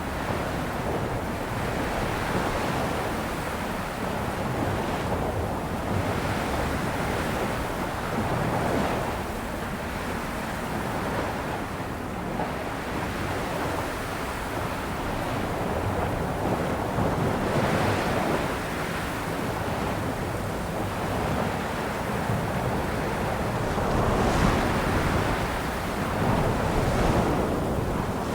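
Sea waves breaking and washing in as continuous surf, swelling and easing in irregular surges every few seconds.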